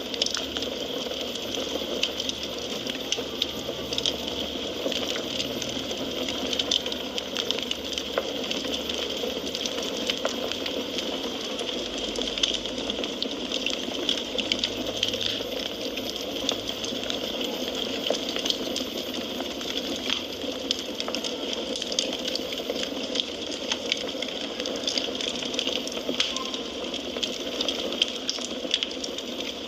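Wood fire crackling steadily, with a constant hiss and many small sharp pops throughout.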